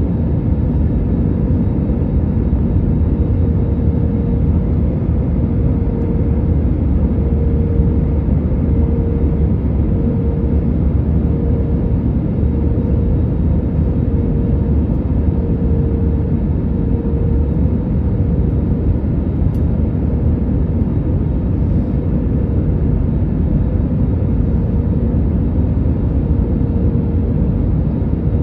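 Airbus A321neo cabin noise heard from a window seat: a steady low rumble of engines and airflow, with a faint hum that wavers slightly.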